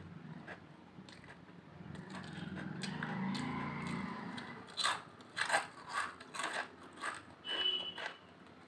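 Potato chips being crunched and chewed close to the microphone, sharp crisp crunches about twice a second through the second half. Before them, a couple of seconds in, a softer noise swells up and fades away.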